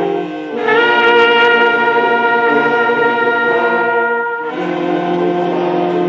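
Brass instruments playing slow, sustained chords of solemn music. A new chord begins about half a second in and is held until about four and a half seconds, when the harmony changes again.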